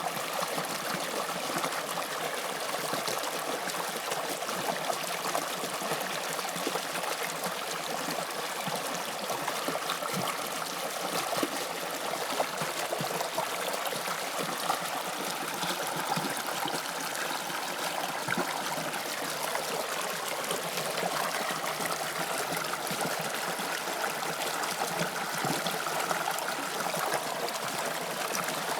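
Toronto subway Line 2 train running: a steady rushing noise with a faint whine that shifts slightly in pitch partway through.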